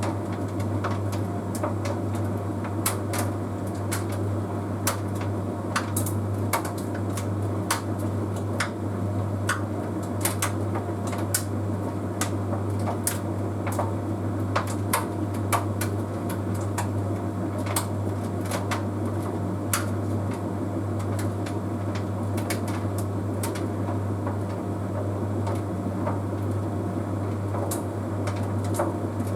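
Bosch Series 6 heat pump tumble dryer running: a steady low hum with many scattered light clicks and taps, thinning out in the last third.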